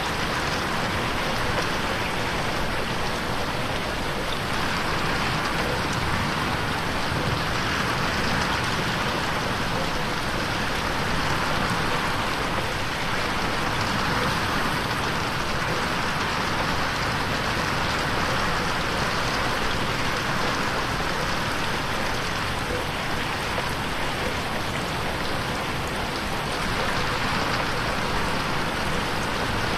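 Steady rain pattering on a window pane: a dense, even hiss of drops that slowly swells and eases, mixed in 8D so that it moves around the listener.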